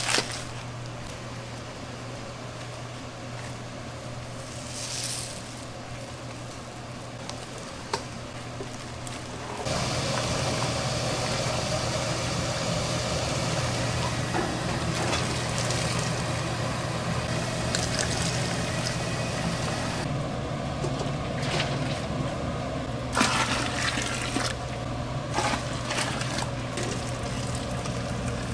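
Water running and splashing into a container, over a steady low hum; the rush turns louder and fuller about ten seconds in, with a few short knocks later on.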